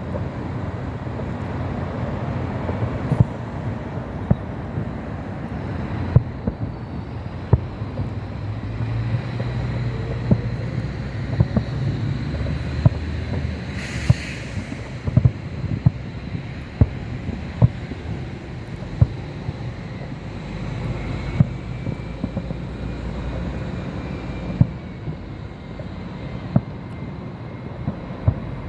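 Fireworks going off, with many sharp, irregular pops and bangs over a steady low rumble of wind noise on the microphone. A short hiss comes about halfway through.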